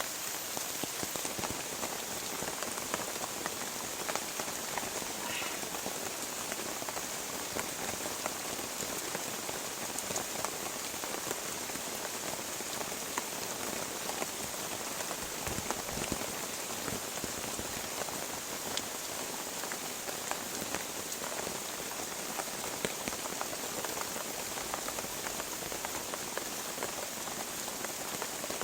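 Heavy rain falling steadily, a dense patter of countless drop impacts.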